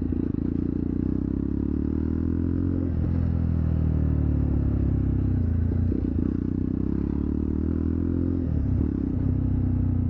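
Jawa Perak's single-cylinder engine and exhaust running at a steady speed while riding, a deep even note with brief breaks about three, six and nine seconds in.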